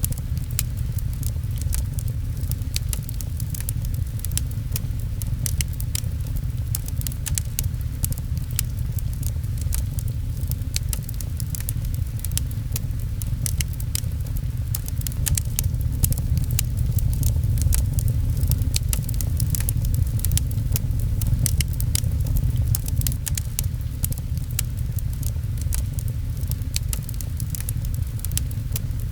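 Wood fire crackling, with many sharp irregular pops over a steady low rumble, mixed with rain.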